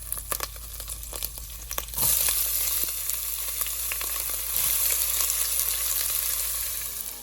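Hot olive oil crackling in a frying pan, then a sudden loud sizzle about two seconds in that keeps going as the onions go into the oil and fry.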